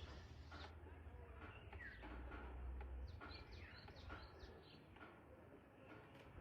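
Faint birds chirping: scattered short calls, several sweeping downward, over a low steady rumble.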